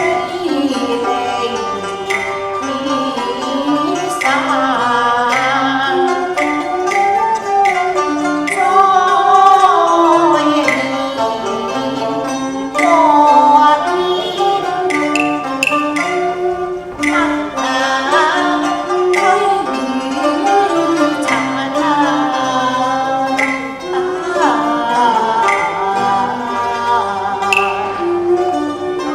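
Cantonese opera music: a traditional Chinese ensemble plays a gliding melody on bowed strings, punctuated by frequent sharp percussion strokes, with singing.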